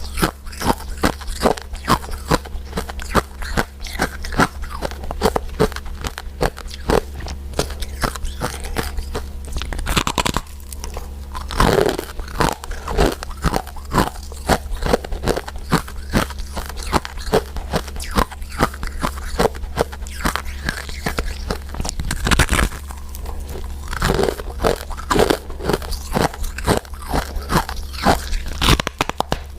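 Close-miked eating of powder-coated mint candies: a dense, irregular run of crisp crunches and chewing, over a steady low hum.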